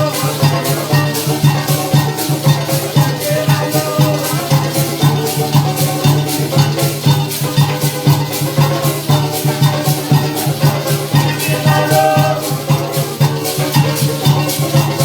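Parang band music with a steady percussion beat running under the playing.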